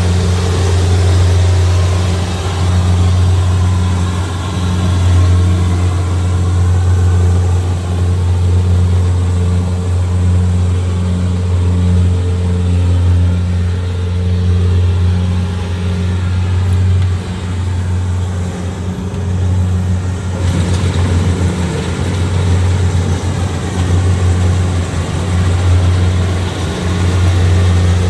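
Kubota DC-70G Plus combine harvester's diesel engine running steadily while harvesting rice: a continuous low drone with a pulsing tone above it. About twenty seconds in, a hissier machinery sound joins and stays.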